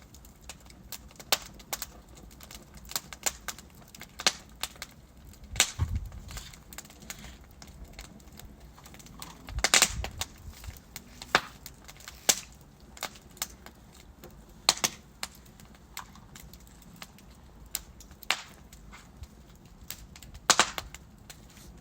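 Logs burning in a fireplace, crackling with irregular sharp snaps and pops over a soft hiss. The loudest pops come about six seconds in, with a low thud under them, and a cluster about ten seconds in.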